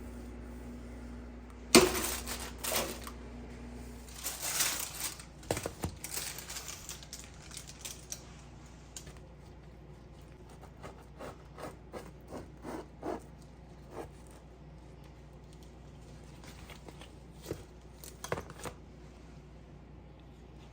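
Kitchen handling sounds: a sharp click, then a run of light knocks, taps and rustling, with scattered single taps later. A steady appliance hum stops about four seconds in.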